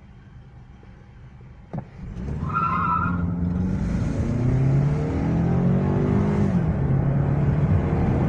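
Toyota Camry 2.5's four-cylinder engine, heard from inside the cabin, idles and then is launched at full throttle from a standstill, after a sharp click about two seconds in. There is a brief tire squeal at the launch. The revs climb hard, fall back at an upshift about two thirds of the way through, and then climb again.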